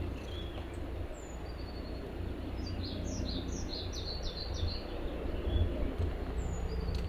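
A songbird singing: a lone high falling whistle, then a quick run of high chirps in the middle, then another whistle near the end, over a steady low rumble.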